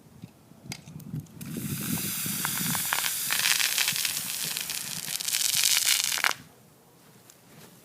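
Diet Coke bottle erupting after Mentos are dropped in: a loud rushing fizz of soda foaming and spraying out. It starts about a second and a half in after a few light clicks, swells over a few seconds, and stops abruptly about six seconds in.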